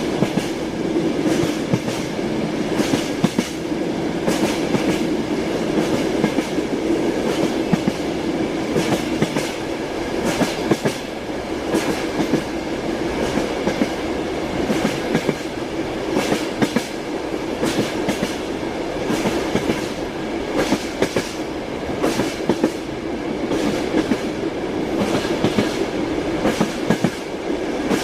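Train wheels running over rail joints: a steady rolling rumble with a continual irregular clatter of sharp clicks, the clickety-clack of a moving train car.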